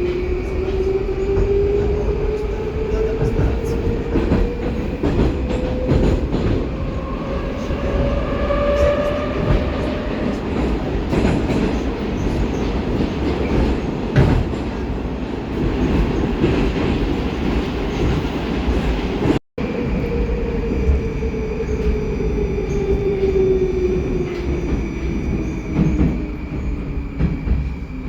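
Baltiets metro train heard from inside the car running between stations: the traction motor whine rises in pitch as it accelerates, the wheels and track rumble steadily while it runs, and the whine falls in pitch as it brakes for the next station. The sound cuts out for a split second about two-thirds through.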